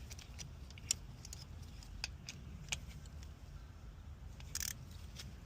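Light metallic clicks and clinks from hand tools, scattered about a second apart, as the thermostat housing bolts are snugged down with a hand ratchet. A short scrape comes about four and a half seconds in, over a low steady rumble.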